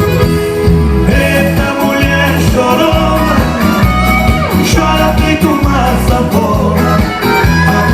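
Live band playing an upbeat forró-style song with accordion and a steady thumping bass and drum beat, in an instrumental passage between sung choruses.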